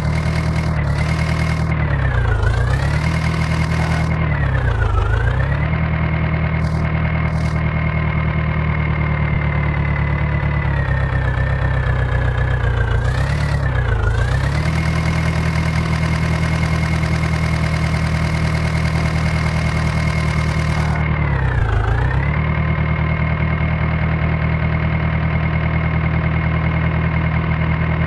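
Heavy diesel engine running at high speed. Its pitch sags briefly and recovers several times, as the engine is loaded and picks back up.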